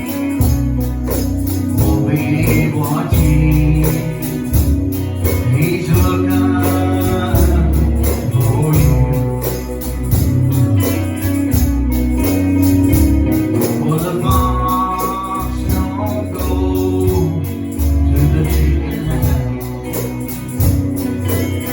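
Live gospel music from a church band and singers: a singing voice over a bass line, with a tambourine shaken in a steady fast beat.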